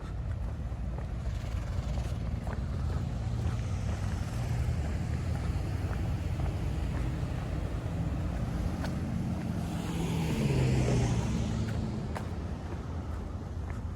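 Outdoor wind buffeting the microphone as a steady low rumble, with one rush of noise that swells to a peak about ten seconds in and then fades.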